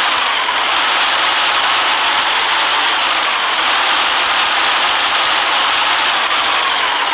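City bus running along a wet road, heard from inside: a steady, even rush of engine, tyre and road noise.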